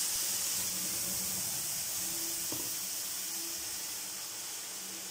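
Ground tomato paste sizzling in hot sesame oil with mustard seeds: a steady hiss that slowly dies down. The paste's high water content makes it spatter in the hot oil.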